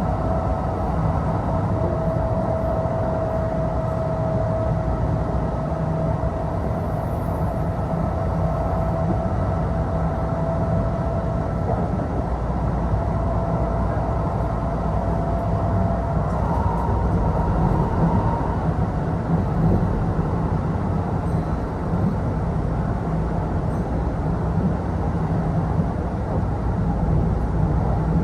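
Kintetsu Osaka Line local electric train running between stations, heard from inside the passenger car: a steady low rumble of wheels on rail with a high whine over it. The whine shifts to a higher pitch about two-thirds of the way through.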